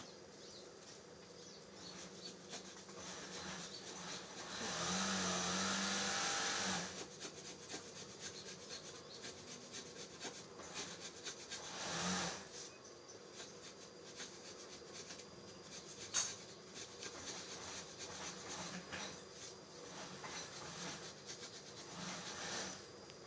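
Kittens scuffling in a play fight, with scratchy rubbing and brushing sounds. About five seconds in comes a louder rasping burst that lasts about two seconds, and there are sharp knocks later on.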